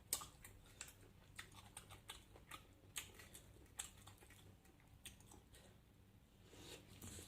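Faint, irregular clicks and small crunches of eating: mussel shells being handled and pried apart, with chewing.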